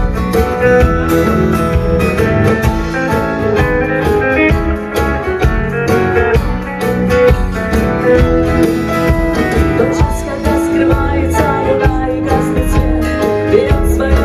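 Rock band playing live, an instrumental passage with guitar over bass and a steady drum beat.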